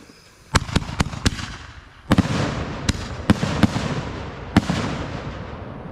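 Fireworks going off: four quick sharp bangs, then a louder bang about two seconds in that sets off a dense crackle, with a few more sharp reports over it before the crackle fades out.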